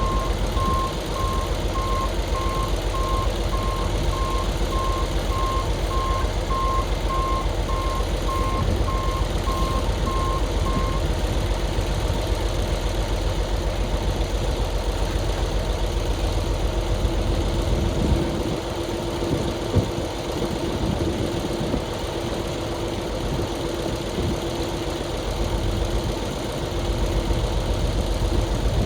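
Dump truck backing up, its reversing alarm beeping at a steady rate for about eleven seconds over the running engine. Then the beeping stops and the engine keeps running; about eighteen seconds in its sound changes and a steady hum sets in.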